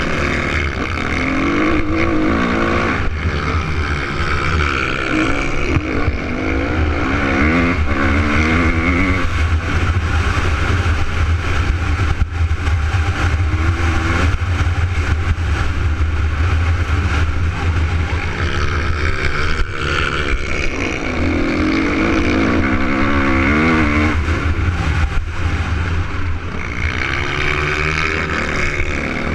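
Suzuki RM250 two-stroke motocross bike engine running hard, its pitch rising and falling repeatedly as the throttle is opened and closed.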